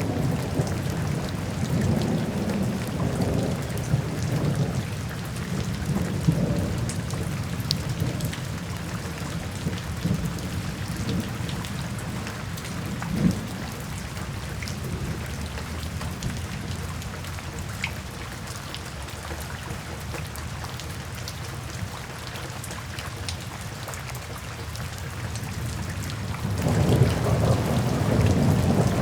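Steady rain hissing with scattered drops, under soft rolling thunder. The low rumble of thunder eases off through the middle and swells up again near the end.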